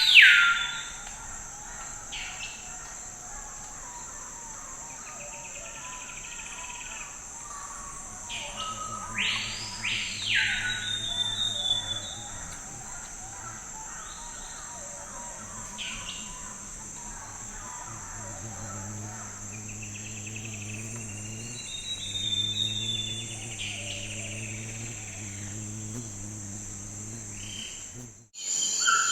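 Forest ambience: a steady high insect trill with birds calling over it, including loud swooping calls at the start and about ten seconds in, and shorter chirps scattered through. A faint low hum sits underneath for most of it, and the sound cuts out abruptly shortly before the end.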